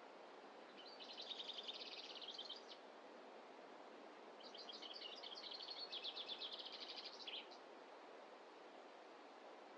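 A songbird singing two rapid trilled phrases, the first about two seconds long and the second about three, over a faint steady hiss.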